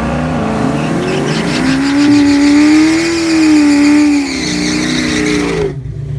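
Drag-race car engine at high revs, its pitch climbing and then holding high with small rises and falls. The sound cuts off suddenly shortly before the end.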